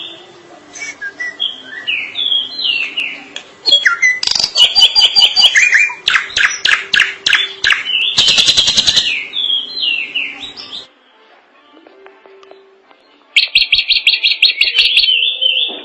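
Drongo singing a long, varied song of whistled notes and rapid chattering trills. After a pause of about two seconds, a fast run of evenly repeated notes follows near the end.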